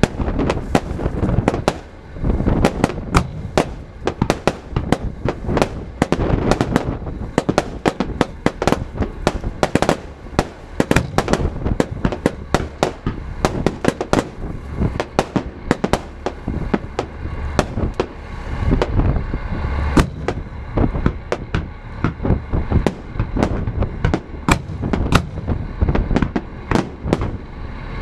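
Fireworks display: a rapid, near-continuous barrage of shell bursts and crackling bangs, several a second, over a low rumble.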